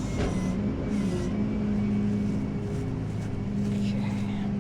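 Rollback tow truck running with a steady hum while its bed is worked to unload a car.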